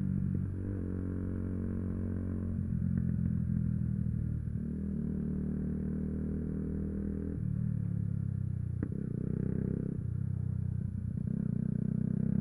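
Yamaha YZF-R125's single-cylinder four-stroke engine running under way, its pitch holding steady and then stepping to a new level several times as the revs change. A brief click about nine seconds in.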